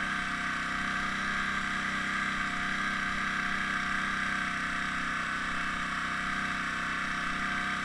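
Air compressor running with a steady, even hum that does not change.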